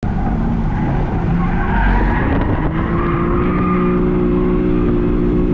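BMW M3's twin-turbo inline-six, fitted with equal-length resonated mid-pipes, running hard under load as heard from inside the cabin on a track lap. The engine note climbs about two and a half seconds in, then holds steady.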